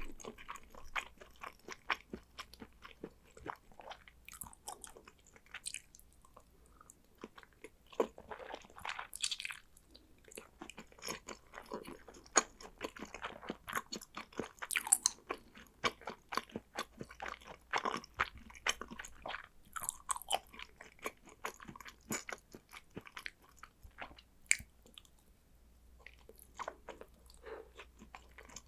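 Close-miked chewing of salmon sushi: a dense, irregular run of small wet mouth clicks and smacks, with a few longer noisy bites and swallows in between.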